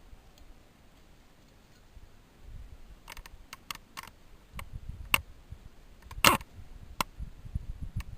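Scattered sharp clicks and knocks of parts and tools being handled on a workbench, with the loudest, briefly ringing clack about six seconds in. No drill is running.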